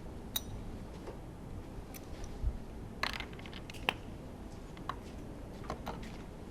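Scattered light metallic clicks and taps from tools and small parts being handled during disassembly of a Honda V10 Formula 1 engine, with a short cluster of clicks about three seconds in.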